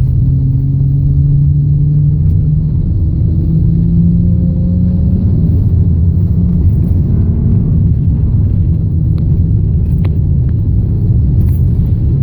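Honda Ridgeline's 3.5-litre V6 running through a Borla Pro XS muffler, its pitch rising steadily as the truck accelerates and then settling lower about six seconds in as the automatic shifts up, over steady road rumble.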